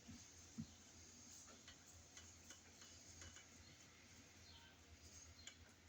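Near silence with faint scattered clicks and light taps, and one soft knock about half a second in.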